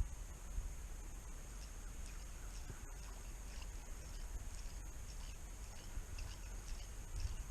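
Outdoor lake ambience from a kayak: a steady low wind rumble on the microphone, a steady high hiss, and faint scattered chirps, with a single small click about three seconds in.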